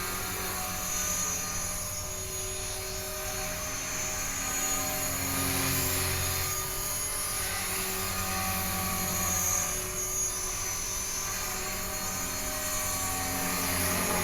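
HK-450 barebones, an electric 450-size RC helicopter that clones the Align T-Rex 450, hovering: a steady whine from the brushless motor and gears together with the hum of the rotor blades. The pitch shifts up and down a little as the throttle and collective change.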